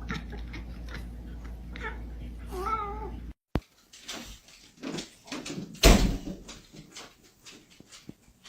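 A cat gives one short, wavering meow about three seconds in. After a break, a string of knocks and clicks follows, with one loud thump about six seconds in.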